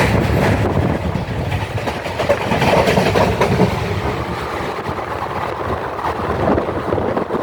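Passenger train running along the track: a steady carriage rumble with rattling and clicking of the wheels on the rails.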